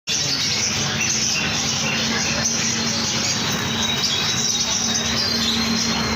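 Birds chirping and chattering densely over a steady low hum, starting abruptly.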